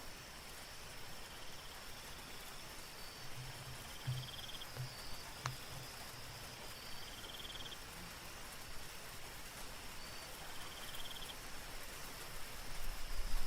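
Soft steady rain with night insects: a constant high-pitched drone and a short trill that repeats about every three seconds. A low rumble builds in near the end.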